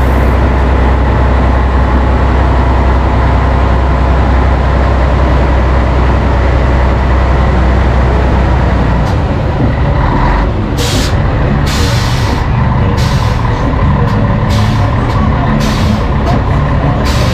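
Scania 113H's straight-six diesel engine running with a heavy, steady rumble. From about halfway through, a series of short hisses of released compressed air come roughly once a second, typical of the truck's air brakes or air suspension.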